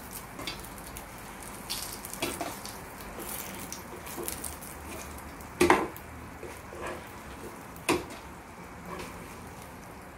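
Masala-coated brinjal (eggplant) slices shallow-frying in oil on a nonstick tawa, sizzling steadily. A steel slotted spatula scrapes and taps against the pan as the slices are turned and lifted, with two sharper knocks about six and eight seconds in.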